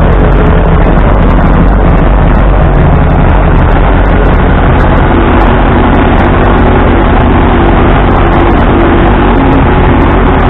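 1945 Ford 2N tractor's four-cylinder flathead engine running steadily, loud and close.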